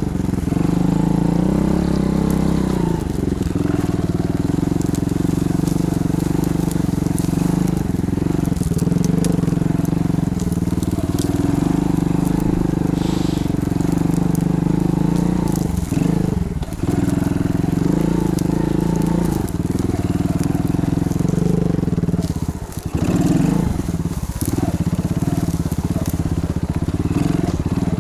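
Chinese pit bike's single-cylinder engine running while riding off-road, its pitch rising and falling with the throttle, and dropping off sharply about halfway through and again a few seconds later. Scattered crackling clicks run over it.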